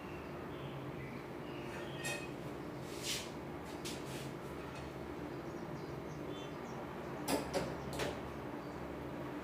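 Metal parts and tools clinking and knocking as they are handled in a stove repair: a few scattered light knocks, with a louder cluster of three near the end, over a steady low hum.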